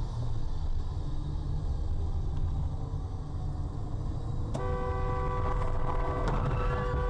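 Low rumble of road and engine noise from a moving car, then a car horn sounds about halfway through and is held steadily to the end.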